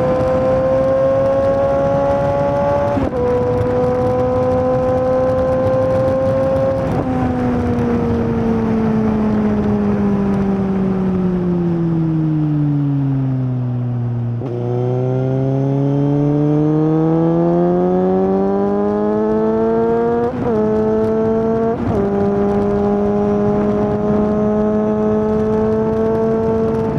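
2019 Suzuki GSX-S750's inline-four engine running through a Yoshimura SQ11 exhaust with the dB killer removed and the catalytic converter deleted, while riding. After an upshift about three seconds in, the revs fall slowly for several seconds as it slows, then climb steadily under acceleration. Two quick upshifts follow, and it settles at a steady cruise.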